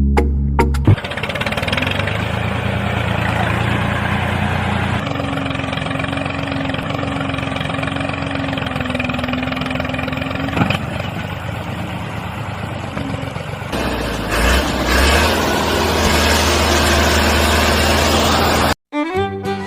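An engine running steadily, in spliced sections that change abruptly about a quarter and about two-thirds of the way through. It cuts off suddenly near the end.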